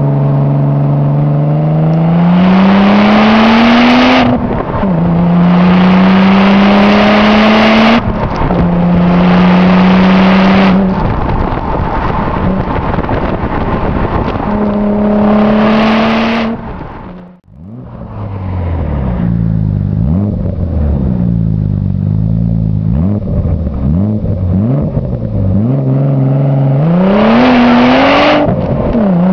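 Audi S4's 2.7-litre twin-turbo V6, with a custom exhaust and intake, accelerating hard: the engine note climbs and then drops at each upshift, about 4, 8 and 16 seconds in. After a brief sharp dip, it runs lower and unevenly with several short rev blips, then pulls up through the revs again near the end.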